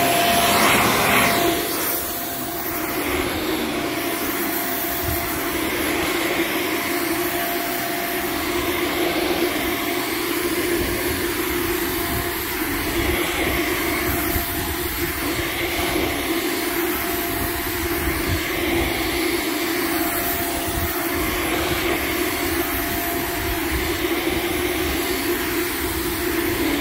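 Shark Vertex upright vacuum cleaner running steadily over a rug, a constant motor drone with a faint whistle coming and going.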